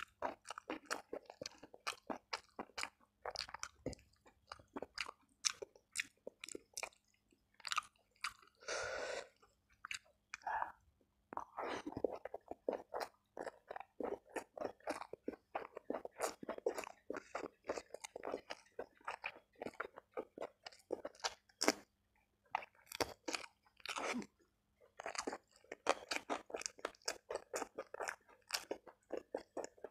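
Close-miked chewing of a mouthful of rice with fried tempeh and stir-fried papaya leaves: rapid wet mouth clicks and crunches with a few short pauses.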